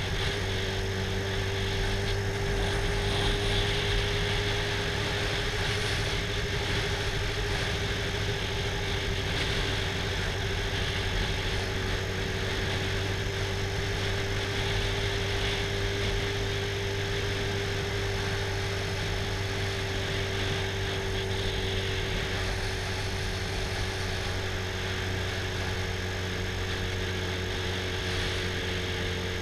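Sport motorcycle engine running at a steady cruising speed, its note holding an almost constant pitch, under a steady rush of wind noise.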